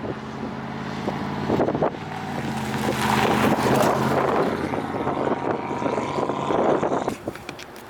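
A vehicle engine running steadily, with wind noise rushing over the microphone that swells in the middle and drops off near the end.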